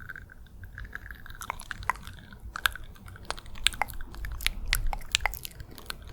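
Close-miked ASMR wet mouth sounds: a run of quick, irregular lip and tongue clicks and smacks, getting denser from about two seconds in.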